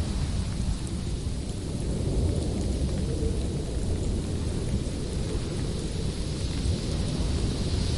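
Howling winter wind: a steady deep rumble with a hiss above it that swells near the end.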